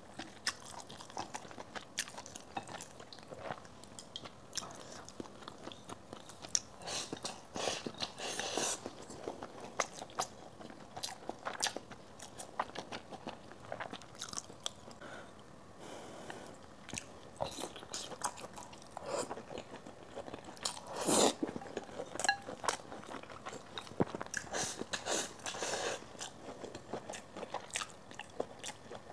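A person chewing and biting food close to a clip-on microphone, mouth-full eating of braised pork and rice with many small wet clicks, the loudest click about 21 seconds in.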